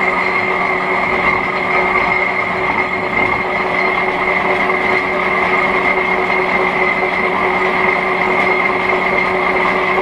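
1941 Hendey flat-belt-drive lathe running under load, taking a heavy roughing cut with a high-speed-steel chip-breaker tool. A loud, steady running noise with a constant low hum and a steady high tone.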